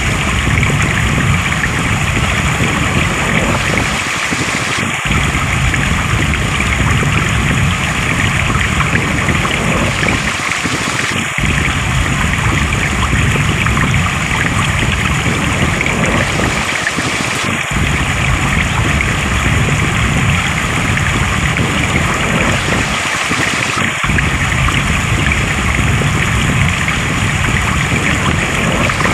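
Steady rush of flowing stream water, with a brief dip in its low rumble about every six and a half seconds.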